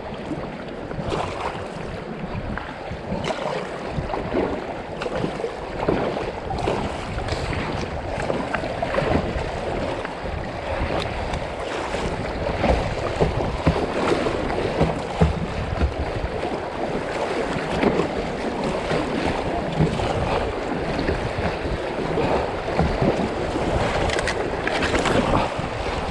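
Fast, high river water rushing around a kayak, with repeated splashes and wind buffeting the microphone.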